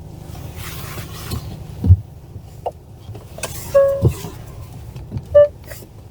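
Low rumble inside a car cabin with a sharp thump about two seconds in, then a short electronic beep near the middle and a brief second beep near the end.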